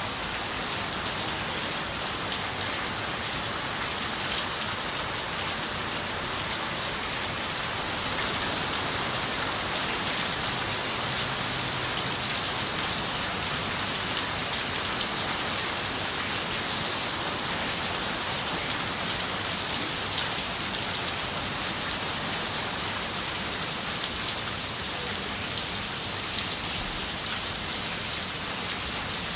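Steady rain on a window, an even hiss of rainfall with scattered drop taps, getting a little heavier about eight seconds in.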